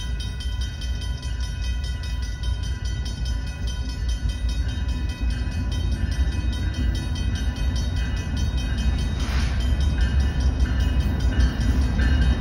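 BNSF freight train's diesel locomotives approaching, their low engine rumble growing steadily louder. Over it, a bell rings in quick, even repeats.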